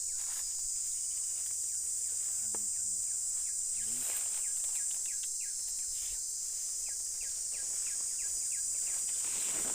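Steady high-pitched drone of an insect chorus, cicadas or crickets, running without a break.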